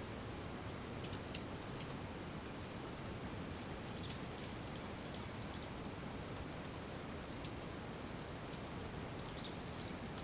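Steady rain falling, with scattered drops ticking on nearby surfaces. A small bird chirps a quick series of short notes about four seconds in and again near the end.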